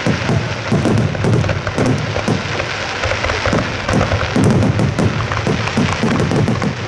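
Aerial firework shells launching and bursting overhead in a rapid, continuous barrage: a dense mix of deep booms and sharp crackling reports, several each second.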